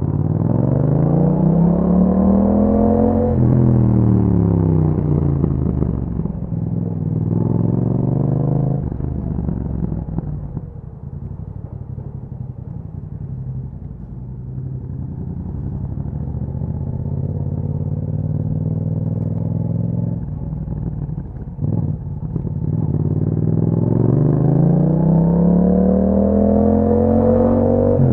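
Yamaha MT-07 parallel-twin engine through an Akrapovic exhaust, accelerating with its pitch climbing, dropping sharply at a gear change and climbing again. It eases to a lower, quieter run through the middle, then pulls up through the revs again near the end.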